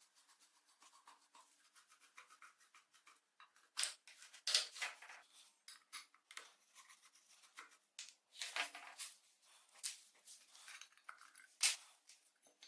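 Irregular hand scraping and brushing strokes, faint at first, with a run of louder, sharper strokes from about four seconds in.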